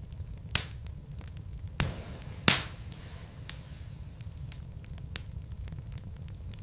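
Wood logs burning in a fireplace: a steady low rumble with irregular sharp crackles and pops, the loudest about two and a half seconds in.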